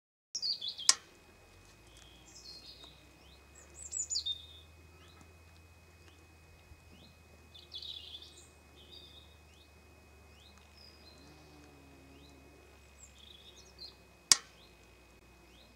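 Small birds chirping, many short high calls that often fall in pitch, scattered throughout. Two sharp clicks stand out, one about a second in and one near the end.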